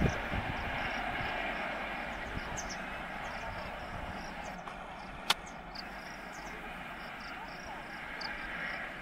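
Rumble of a receding express train's LHB coaches running on the rails, fading slowly as the train draws away. Insects chirp high and steadily, and there is one sharp click about five seconds in.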